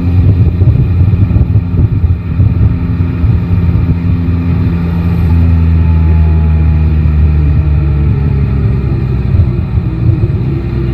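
Yamaha Tracer 9 GT's three-cylinder engine running under way, heard from the rider's seat. It holds a steady pitch through the middle and rises in pitch over the last few seconds as it accelerates.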